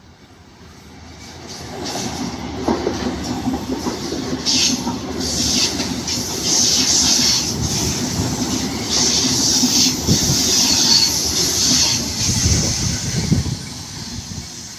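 A train running past on the rails: the sound builds over the first two seconds, stays loud with high-pitched wheel noise for about ten seconds, then dies down near the end.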